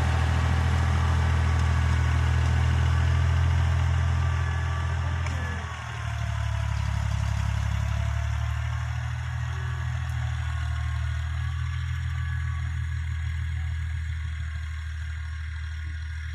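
Tractor engine running steadily. About six seconds in it dips briefly, then carries on somewhat quieter and duller.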